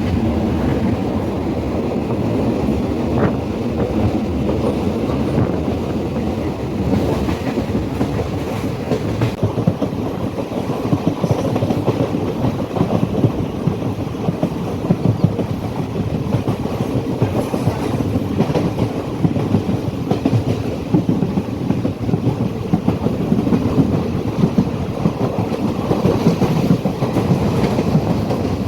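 Passenger train running along the track, heard from on board: a steady rumble with the wheels clicking over the rail joints.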